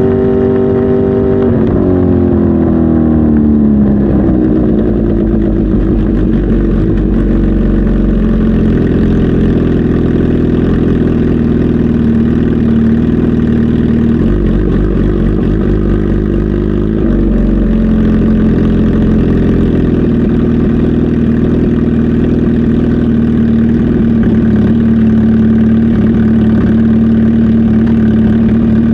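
Kawasaki Z H2 SE's supercharged 998 cc inline-four engine running. It is blipped over the first couple of seconds, with the revs falling back, then it settles to a steady idle.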